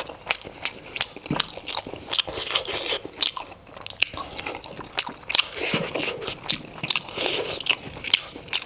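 Close-miked mouth sounds of someone eating steamed momos (dumplings) dipped in chutney: chewing and biting with many sharp smacking clicks, several a second.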